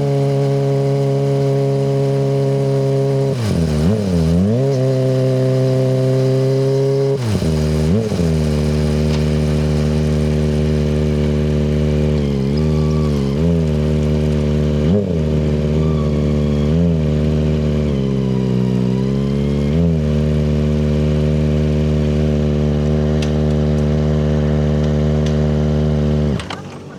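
Kawasaki ZX-25RR's 250 cc inline-four running through a Yoshimura Hepta Force exhaust, held at steady high revs with repeated quick dips and recoveries as the throttle is eased and reopened. The engine sound stops abruptly near the end.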